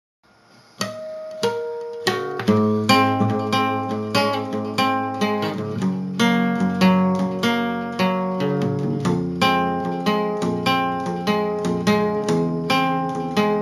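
Instrumental intro of a song: acoustic guitar picking single notes, starting just under a second in, joined about two and a half seconds in by low bass notes in a steady rhythm.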